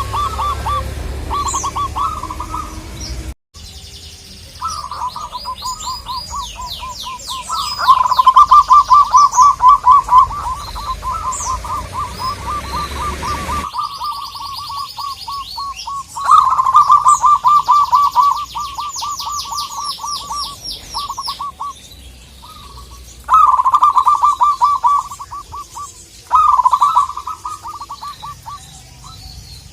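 Zebra doves (local perkutut) cooing in long runs of fast, stuttering notes, several bouts overlapping, with brief pauses between them. Thin high chirps from other small birds sound over them.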